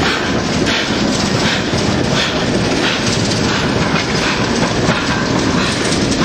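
Steam locomotive 600 Gordon, a 2-10-0, being shunted dead at walking pace by a diesel locomotive. Its wheels and coupling rods give a light clank a little more often than once a second over a steady rumble of rolling wheels and the diesel's running engine.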